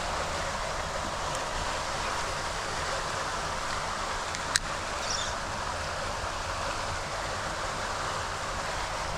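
Steady rush of floodwater pouring through a storm drain, with one sharp click about halfway through.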